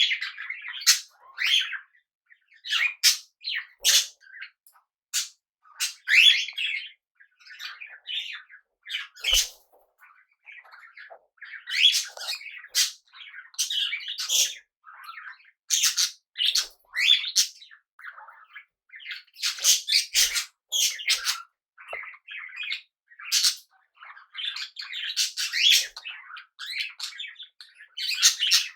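Small pet parrots chirping: many short, high calls one after another, in quick clusters with brief gaps.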